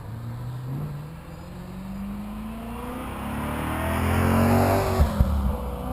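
DJI 550 hexacopter's electric motors and propellers buzzing, the pitch climbing and the sound growing louder until about four and a half seconds in as it speeds up or closes in. Two short knocks come about five seconds in.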